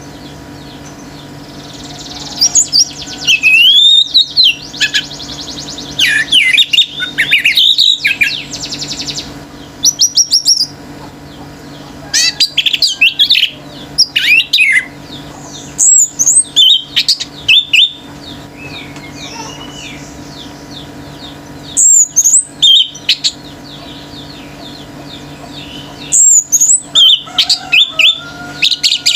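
Orange-headed thrush in full song: loud, varied bursts of rapid whistled and chattering notes, each phrase lasting a second or two and coming every few seconds, over a faint steady hum.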